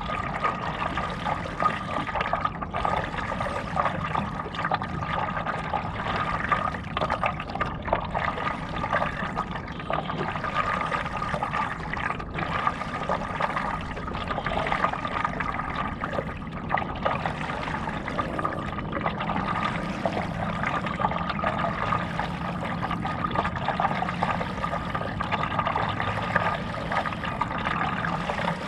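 Water trickling and splashing steadily close around a stand-up paddleboard, a continuous busy dribbling with many small crackles and no pauses, with a faint steady hum beneath.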